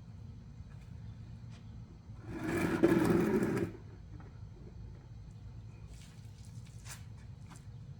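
Ryobi 2000 psi electric pressure washer running for about a second and a half, its motor whirring under a hiss of spray, then stopping. Faint clicks follow near the end.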